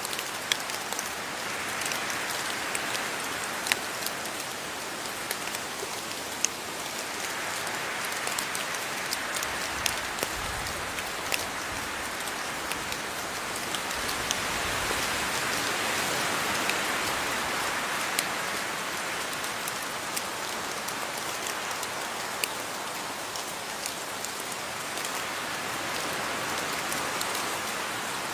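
Steady rain falling, with sharp ticks of single drops striking a near surface throughout; the wash of rain swells a little about halfway through and eases again.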